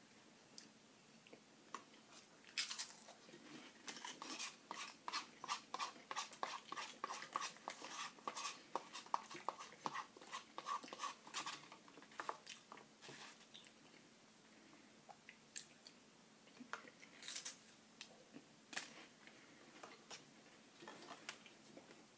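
Close-up eating of chili with saltine crackers: wet mouth clicks and crunching chews, coming in a steady rhythm of about three a second through much of the first half, then sparser.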